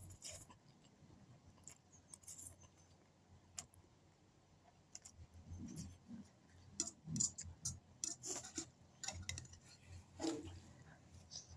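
Faint, scattered clinks of cutlery against a plate while eating noodles, with soft low mouth sounds of eating, more frequent in the second half.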